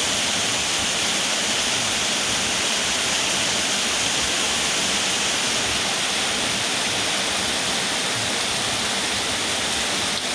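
Steady heavy rain falling, a dense even hiss.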